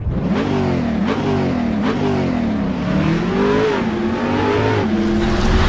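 A car engine revving, its pitch rising and falling in three quick blips, then climbing more slowly and settling to a steady note near the end.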